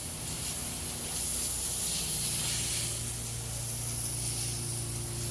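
Water spraying in a steady hiss as a dirt bike is washed down, over a constant low hum.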